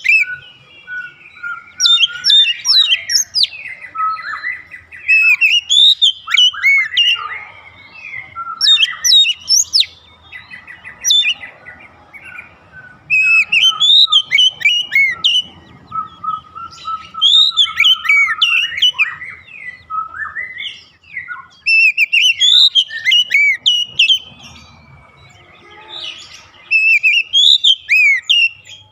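Oriental magpie-robin (kacer) singing: loud bouts of varied, quickly sweeping whistled phrases every few seconds, over a fainter run of rapid repeated notes.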